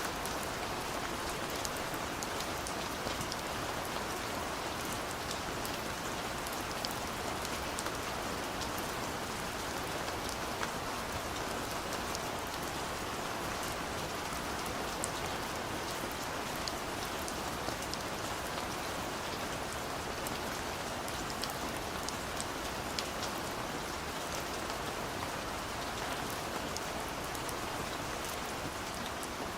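Steady rain falling, with many scattered sharp drop ticks over an even hiss.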